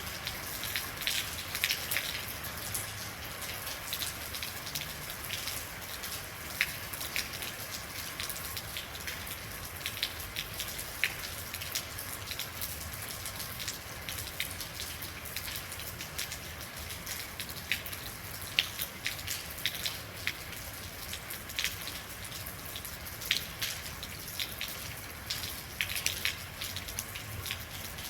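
Steady rainfall, a continuous hiss dotted with many sharp individual drops striking a surface.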